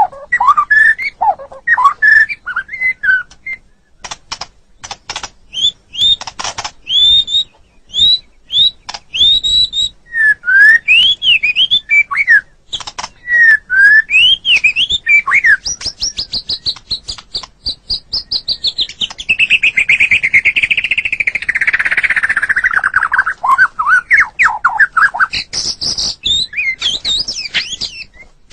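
White-rumped shama (murai batu) singing a varied song of clear whistled notes, upward and downward sweeps and sharp clicks. About halfway through it breaks into a long, rapid run of notes that falls in pitch and rises again.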